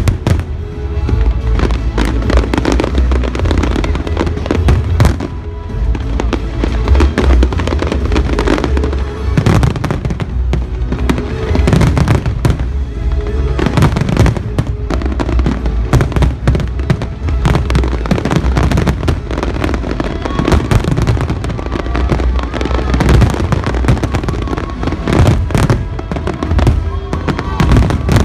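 Fireworks display: many sharp bangs and crackles going off in quick, irregular succession over a deep rumble, with music playing alongside.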